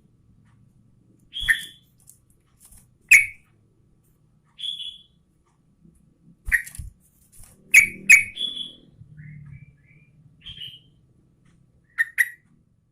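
Yellow-vented bulbul (trucukan) giving short, sharp whistled notes, singly or in quick pairs with pauses between.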